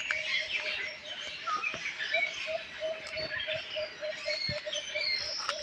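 Many small birds chirping and twittering at once, a dense chorus of short overlapping calls, with a steady low note repeating about three times a second underneath.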